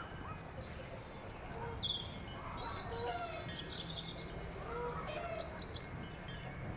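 Small birds chirping and calling again and again, short high chirps and a few lower whistled notes, over a steady low rumble.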